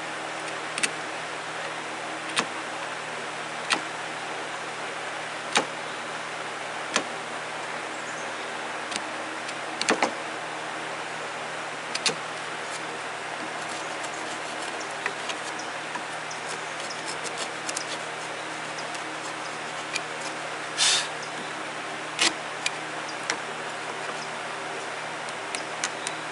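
Chisel work on a wooden leg: sharp knocks about every second and a half as a groove is trimmed to fit a piece, with a cluster of lighter ticks and a longer scrape-like burst later on.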